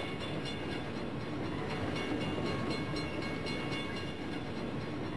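Approaching train locomotive running, a steady noise with faint high steady tones held above it.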